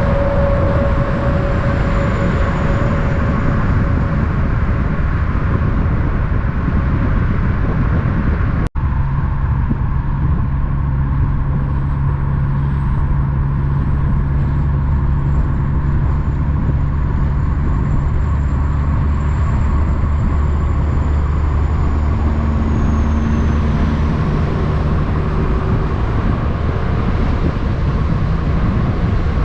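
Road traffic: vehicle engines and tyre noise running steadily, with a low engine hum through the second part. A brief cut to silence about nine seconds in.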